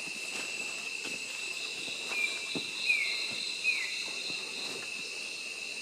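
Rainforest insects calling in a steady, high-pitched chorus of several unbroken tones. Three short falling chirps stand out over it between about two and four seconds in.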